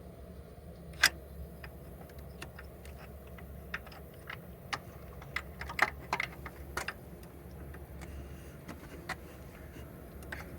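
Scattered sharp metallic clicks and clinks of hand tools and engine parts being handled while fitting a timing belt and tensioner, the loudest about a second in and a cluster near six seconds, over a steady low hum.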